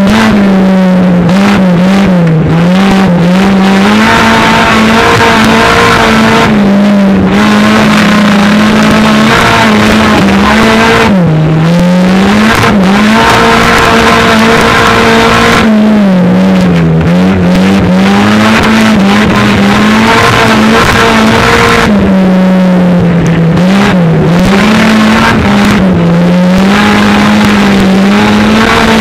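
Stock car engine heard from inside the cockpit, very loud and held at high revs. Its pitch dips and climbs back several times as the throttle is eased and reopened.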